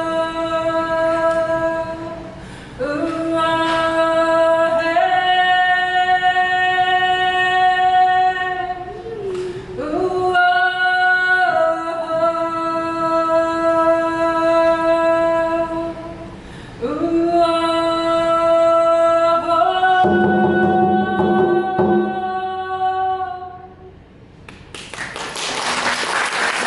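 A voice singing long, held notes without accompaniment, sliding between pitches, with short breaths between phrases. Applause breaks out near the end.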